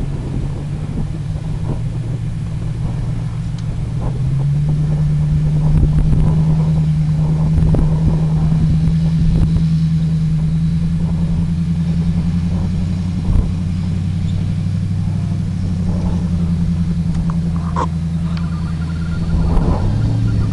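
Off-road 4x4's engine running under load as it climbs a muddy hill at steady revs. The engine note steps up about four seconds in and holds, then drops briefly near the end and rises again.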